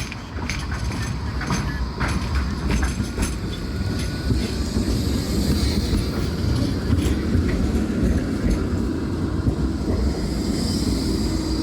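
Tram running along the track: a steady rumble with a run of clicks over the rail joints in the first few seconds, and a faint high wheel squeal around the middle and again near the end.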